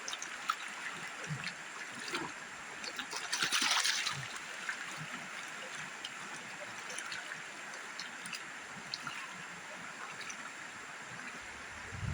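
River water running steadily, with a brief louder splash of water about three to four seconds in and scattered small clicks.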